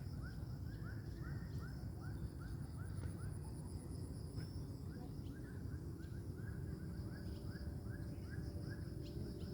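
A bird calling in a long series of short repeated notes, about three a second, with a brief pause a little before the middle.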